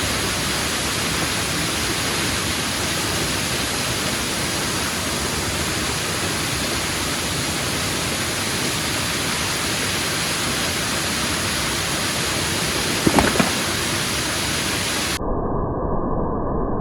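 Waterfall pouring at close range: a steady, even rush of falling water, with a brief louder sound about two-thirds of the way in. Near the end the sound turns suddenly duller and lower.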